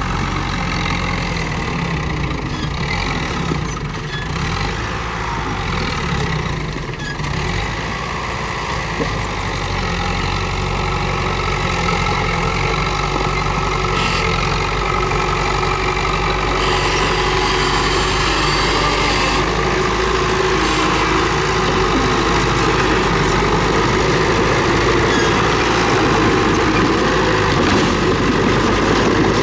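Komatsu D31P bulldozer's diesel engine running steadily as it pushes and spreads stone, growing gradually louder through the clip.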